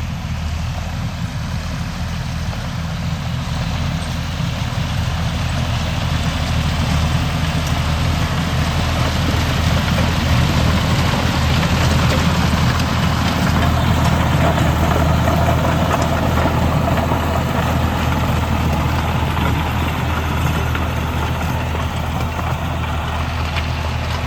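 John Deere 5310 tractor's diesel engine running steadily. It grows louder and rougher through the middle, then eases a little near the end.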